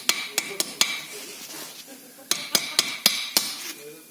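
Hammer tapping on a metal part, two quick runs of four or five sharp blows, each leaving a short metallic ring.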